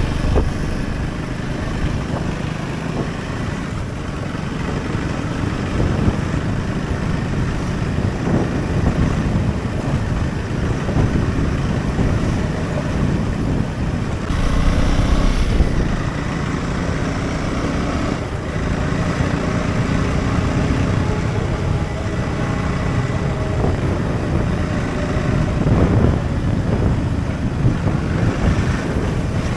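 Husqvarna Svartpilen 401's single-cylinder engine running steadily while the bike is ridden, with small swells in level.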